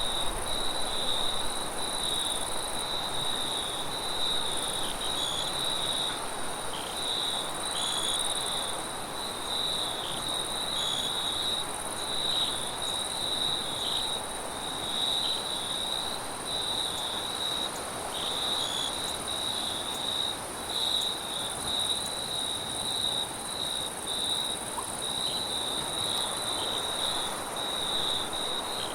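Crickets chirping continuously in a steady pulsing trill, over a soft, even rush of wind.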